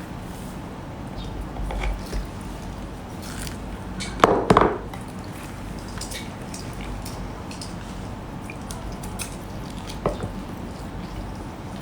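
Eating a seafood meal: scattered small clicks and taps of handling and biting, with one louder burst about four seconds in and a smaller one near ten seconds.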